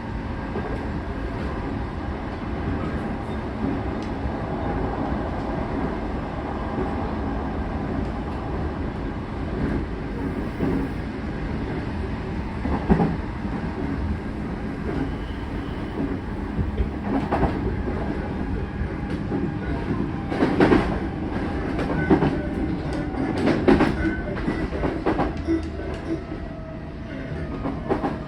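Interior running sound of an Odakyu 4000-series electric train: a steady rumble of wheels on rail with several sharp clacks over rail joints. Near the end, a faint motor tone slowly falls in pitch as the train slows.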